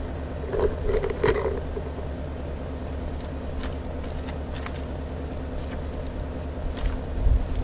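Porsche Cayenne Turbo's twin-turbo V8 idling with a steady low exhaust rumble, with a few short clicks and a brief louder sound about a second in.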